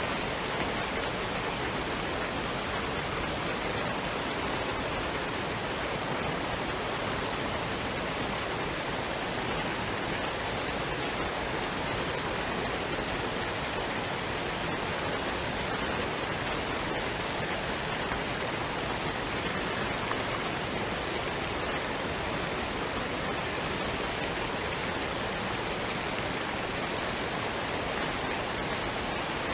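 Waterfall and stream water rushing in a steady, even wash of noise with no break or change.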